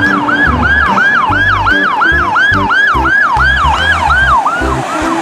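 Ambulance siren in a fast yelp, each note sweeping up in pitch about three and a half times a second and fading near the end. Background music with a steady bass beat runs underneath.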